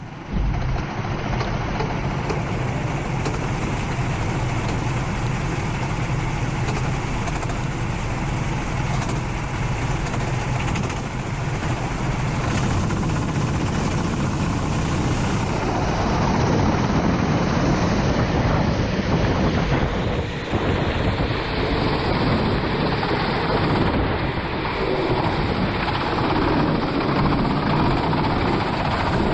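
Four-stroke racing kart engine running under way, mixed with the hiss of wind and rain spray on a wet track.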